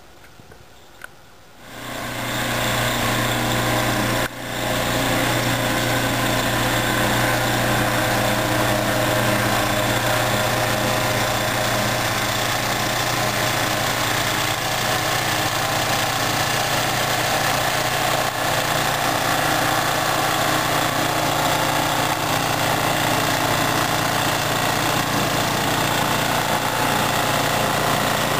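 A small engine running steadily. It comes in about two seconds in and dips briefly a couple of seconds later.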